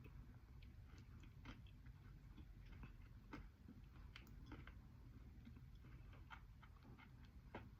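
Faint, irregular crunches and crackles of someone chewing dry, brittle edible clay.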